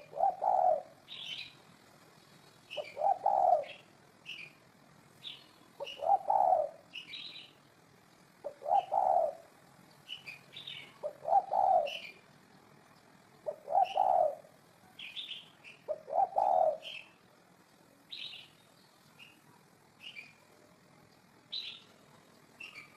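Spotted dove cooing: a low coo phrase repeated about every two and a half seconds, seven times, stopping about three quarters of the way through. Short high chirps from small birds are scattered throughout.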